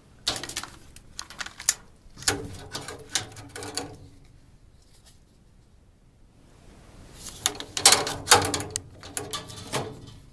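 A plastic-framed furnace filter being worked into the furnace's filter slot, its edges catching as it goes in. It scrapes, clicks and rattles in two bursts, with a pause of a few seconds between them; the second burst is the louder.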